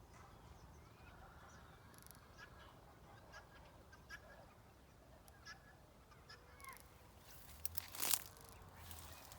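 Farm poultry calling faintly in scattered short calls and chirps, with a louder burst about eight seconds in.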